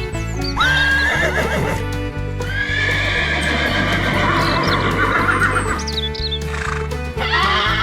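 Horse whinnies over background music with a steady beat: long, wavering neighs, one starting about half a second in, a longer one from about two and a half to six seconds, and another starting near the end.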